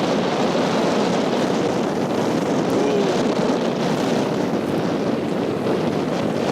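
A boat running on open sea: a steady rush of engine, hull and water noise, with wind buffeting the microphone.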